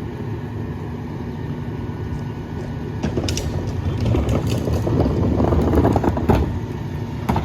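Mack LR garbage truck's diesel engine idling. About three seconds in it speeds up and gets louder, with clanks and knocks as the McNeilus rear-loader packer cycles and compacts the load. A last knock comes near the end.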